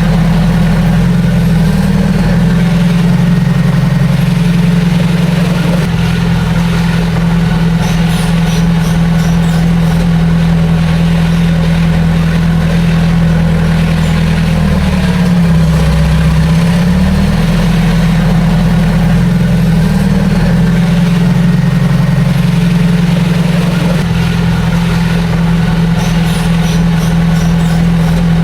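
Heavy diesel engine of earthmoving machinery running steadily and loudly; its note drops briefly about halfway through, then comes back up. Faint metallic clinks twice.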